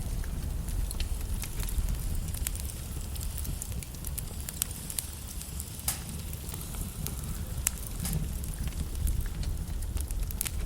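Wood logs burning in a fireplace: a steady low rumble of flames with irregular sharp crackles and pops from the burning wood.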